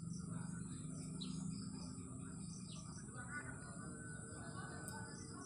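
Small birds chirping with many short calls, over a steady high-pitched whine and a low background hum.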